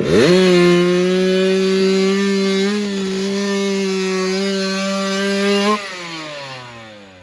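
Small mini bike engine held at steady high revs for several seconds after a quick dip and climb at the start. Near the six-second mark it comes off the throttle and the pitch falls away.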